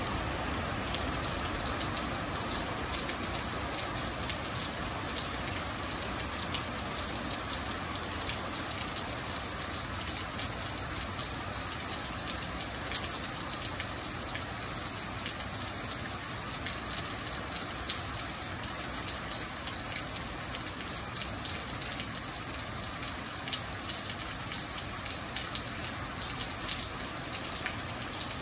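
Steady rain pouring down, a constant hiss dotted with many small sharp drop ticks.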